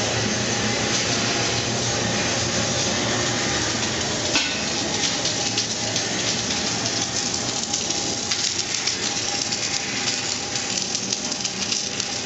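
Submerged-arc welding running steadily while a guide wheel is built up: a continuous hiss with a faint machine hum. From about four seconds in it is dotted with more frequent small crackles and ticks.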